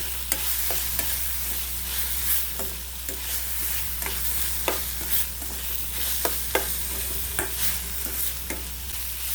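Chopped onion, tomato and chilli sizzling in oil in a kadai while being stirred and sautéed, with scattered clicks and scrapes of the stirring utensil against the pan.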